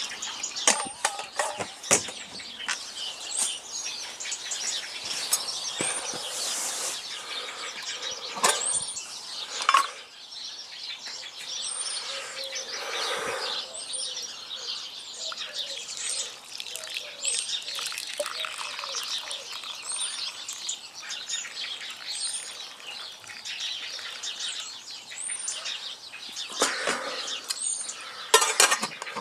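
Garden birds singing, one repeating a short high chirp about once a second, with scattered knocks and clatter of handling, most of them in the first few seconds and again near the end.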